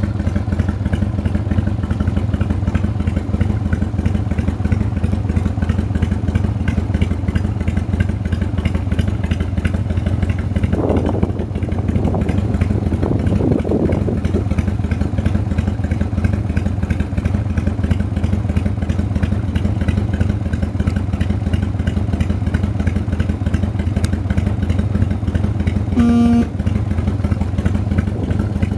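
1995 Harley-Davidson FXDWG Dyna Wide Glide's air-cooled 1340 cc Evolution V-twin idling steadily with its even, throbbing beat. A short beep sounds near the end.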